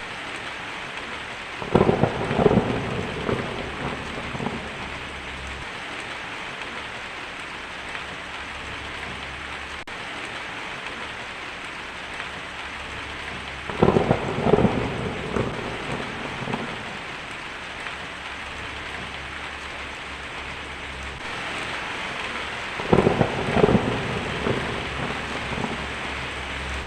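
Steady rain with three short rolls of thunder, about two, fourteen and twenty-three seconds in, each a few seconds of closely spaced cracks.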